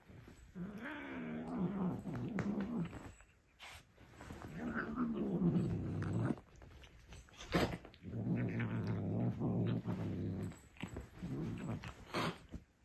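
Cat growling and yowling during a fight standoff: about four long, low, drawn-out calls, with a few short knocks between them.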